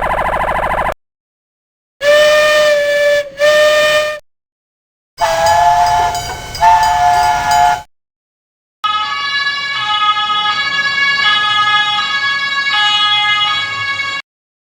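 A run of separate emergency alarm sound effects with short silent gaps: a steady alarm tone that cuts off about a second in, two blasts of a steady horn-like whistle, a horn whose pitch shifts partway, then about five seconds of a two-tone siren stepping back and forth between a high and a low note.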